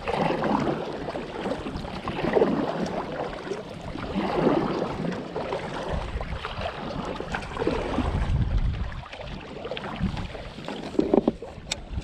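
Water sloshing and splashing in uneven surges, with wind buffeting the microphone in low rumbles.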